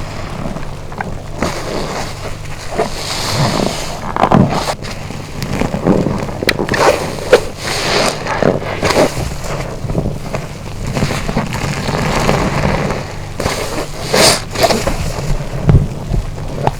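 A wet car wash sponge being squeezed and rinsed in water: irregular squelches and rushes of water, the sharpest about a third of the way in, around halfway, and again near the end, over a low steady hum.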